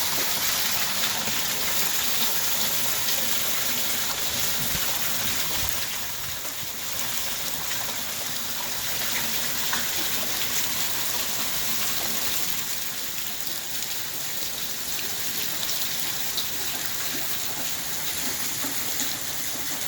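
Heavy rain pouring down steadily, a dense hiss of drops with many small taps.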